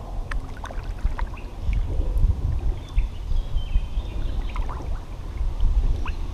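Water lapping and trickling around a small plastic kayak, under a steady low rumble of wind on the microphone, with scattered faint ticks and chirps.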